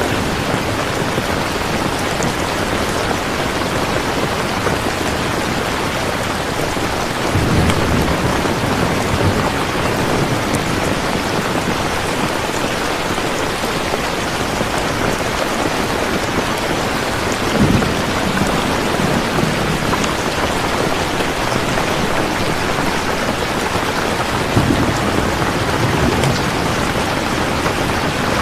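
Steady rain, a dense even hiss, with low rumbles of thunder swelling up briefly a few times: about a quarter of the way in, near the middle and toward the end.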